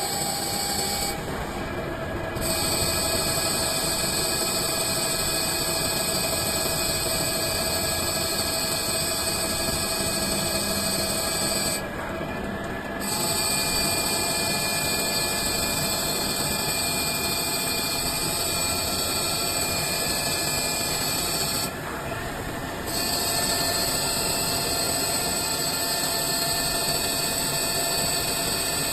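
CNC lathe turning a metal cylinder into a ball, a steady machining whine with several held tones and a high hiss; the high hiss drops out briefly three times.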